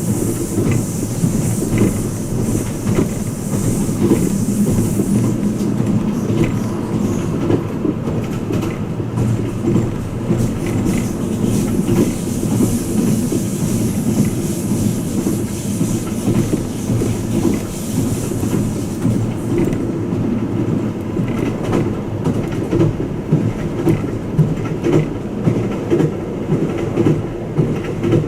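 Twilight Express Mizukaze running at speed, heard from inside its passenger cabin: a steady low rumble of wheels on the track with light scattered clatter. A higher hiss rides over it for the first few seconds and again from about the middle, then falls away for the last third.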